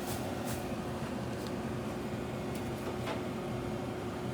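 Steady mechanical hum with a constant low tone, broken by a few light clicks and taps.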